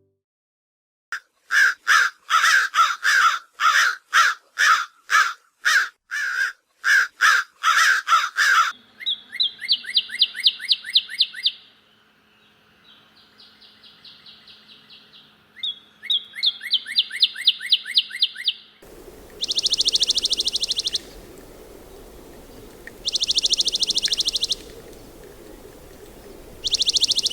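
Three bird recordings in turn: an American crow giving a long series of harsh caws, then a northern cardinal singing phrases of rapid slurred whistles about nine seconds in, then a dark-eyed junco giving three steady high trills from about nineteen seconds on.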